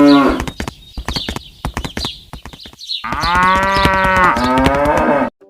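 A cow mooing: one call fading out about half a second in, then a longer call from about three seconds in that cuts off suddenly near the end, with sharp clicks in between.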